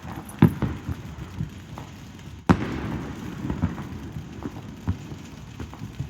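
Consumer fireworks going off: a run of sharp bangs and pops, the loudest about two and a half seconds in, followed by scattered smaller pops over a low rumble.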